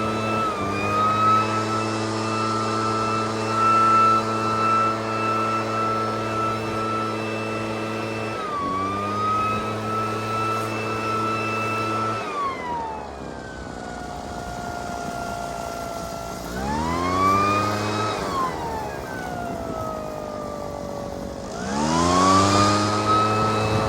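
Small gasoline engine of lawn equipment running at full throttle, then throttled down to a low idle about halfway through. It is revved up and let down again, then revved back up to full speed near the end.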